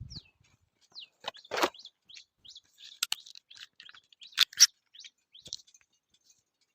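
Birds chirping: scattered short, high calls and brief pitch glides, with two sharp clicks about four and a half seconds in.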